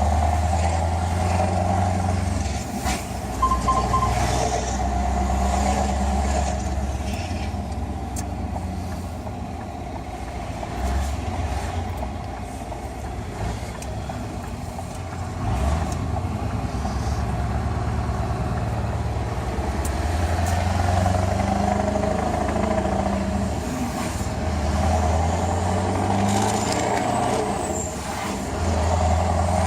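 Scania R500 V8 truck engine running through open, unsilenced exhaust pipes, its low note swelling and easing several times as the revs change.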